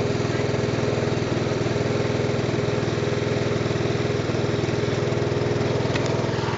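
Lawn tractor's small engine running steadily after a hard start, with an even, rapid firing pulse.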